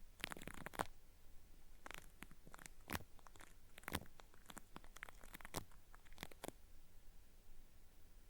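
Cotton swab rubbing and scraping at a binaural microphone's ear, making irregular crackly, peeling-like scratches in short clusters. It stops about six and a half seconds in.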